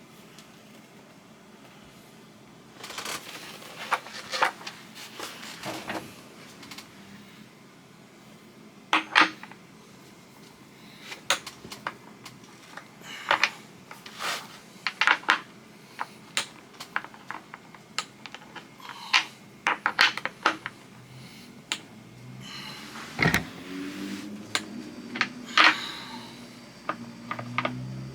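Tool working the kingpin nut on a skateboard truck as it is tightened: irregular metallic clicks and clinks, with a heavier knock about 23 seconds in.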